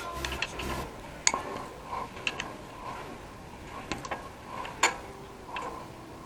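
A few sharp, irregular metallic clicks of a spanner working the 8 mm bolts on a Royal Enfield 350's oil filter cover.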